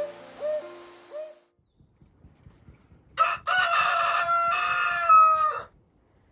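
Background music fading out, then a rooster crowing once: a short first note and a long held, slightly falling call of about two and a half seconds, about three seconds in.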